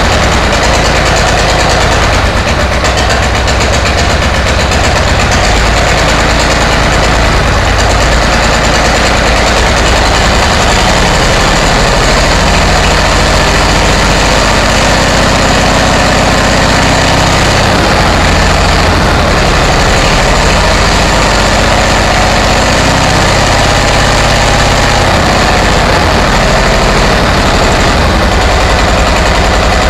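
Six-cylinder Eicher diesel engine of an Eicher Wotan tractor running near idle, loud and close, its pitch wavering slightly now and then. This is the engine's first run after a full rebuild, following a fire and 15 years standing still.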